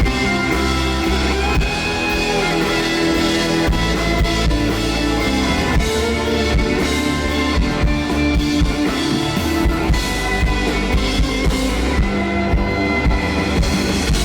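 Rock band playing live in an instrumental passage without vocals: guitars with bass and a drum kit keeping a steady beat.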